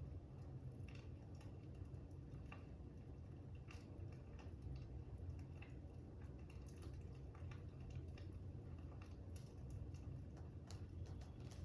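Fire crackling softly: irregular small pops and ticks over a low, steady rumble.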